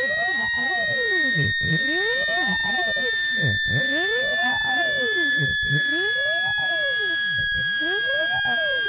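Synthesized speaker-cleaning tones, played to vibrate water and dust out of a phone speaker. A steady high electronic tone slowly falls in pitch, while lower tones sweep up and down about once a second. Faint clicks come roughly every two seconds.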